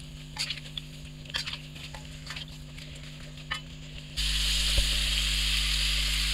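Chicken pieces frying in butter in a karahi, with a metal spoon scraping and turning them against the pan in short strokes. About four seconds in, the sizzle jumps abruptly to a loud, steady hiss.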